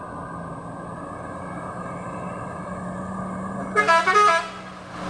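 Heavy vehicle engine running steadily on a steep climb and slowly growing louder. About four seconds in, a short horn honk broken into a few pulses.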